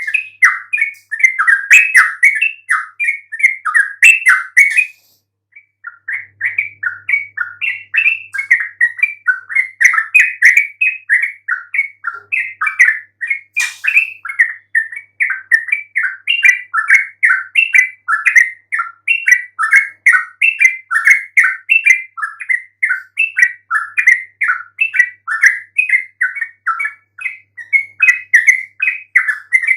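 Yellow-vented bulbul (trucukan) singing continuously in a fast, unbroken stream of short chattering notes, with one brief pause about five seconds in.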